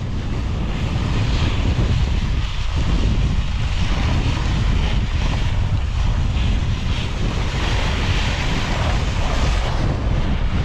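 Strong wind buffeting the microphone: a heavy, steady rumble with a hiss of gusts over it.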